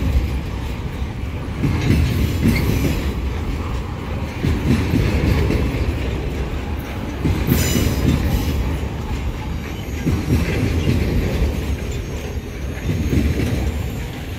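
Empty freight wagons of a pulp train rolling past at speed, steel wheels clattering over the rail joints in a rumble that swells every couple of seconds as each wagon's wheelsets go by. It eases off near the end as the last wagon passes.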